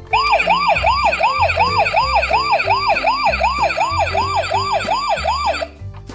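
Electronic emergency-vehicle siren in a fast yelp: repeated quick rising-and-falling whoops, about two and a half a second. It cuts off shortly before the end, over background music.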